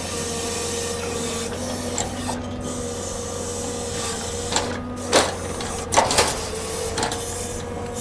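Heavy log-unloading machinery running with a steady whine, with a few sharp knocks about five and six seconds in.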